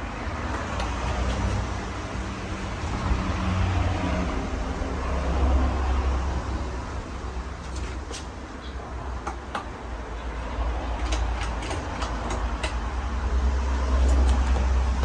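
A Hampton Bay Cameron II Plus ceiling fan with a 188mm spinner motor running, its airflow pushing a rushing sound and a low rumble across the microphone that swells and fades every few seconds. A few light clicks come in the second half.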